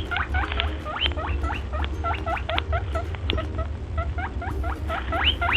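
Rabbit squeaking: rapid high-pitched squeaks, several a second, each sliding up or down in pitch, over a steady low hum.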